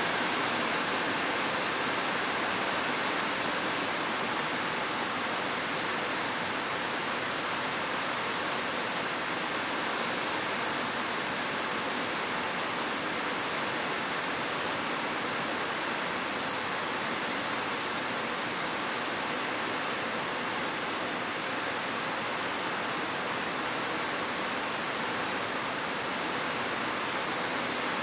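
Heavy rain falling steadily: a dense, even hiss with no let-up and no single drops or thunder standing out.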